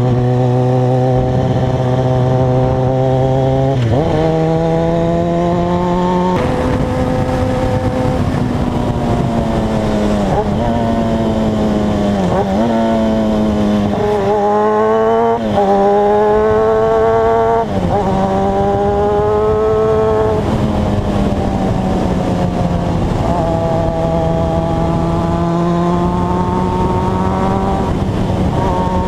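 Motorcycle engine running on the road, its pitch climbing and falling repeatedly with throttle, with several sudden drops in pitch as it shifts gear.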